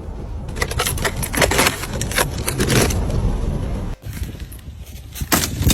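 Snow and ice being cleared from a snowed-in car: a run of irregular crunching, scraping strokes over a steady low rumble, with a brief break about four seconds in.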